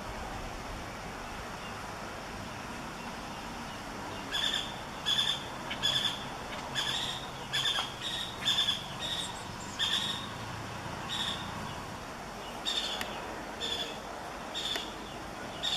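A bird calling with a series of short, high, clear notes, repeated irregularly about one or two a second, starting about four seconds in over a steady background hiss.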